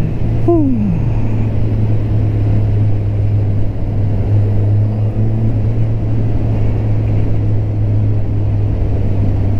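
Suzuki GSX-R 1000 K8 inline-four engine running at steady revs while riding, a constant drone with road noise.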